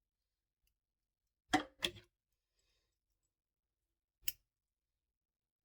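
Near silence broken by two quick knocks about a second and a half in and one sharp click near the end.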